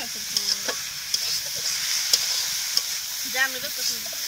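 Leafy greens sizzling in a metal wok over a wood-fired clay stove, with a metal spatula scraping and clicking against the pan as they are stirred.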